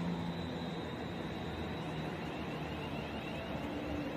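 British Rail Class 350 Desiro electric multiple unit approaching through the station: a steady running noise, joined about a second and a half in by a faint high, wavering whine.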